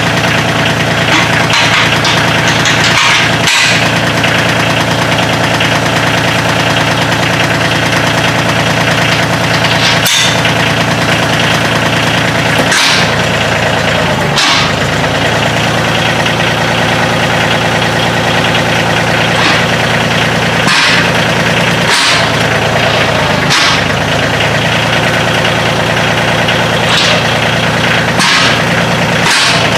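Kioti CK2610 compact tractor's three-cylinder diesel engine running at a steady speed, with a dozen or so brief sharp clicks or knocks scattered through.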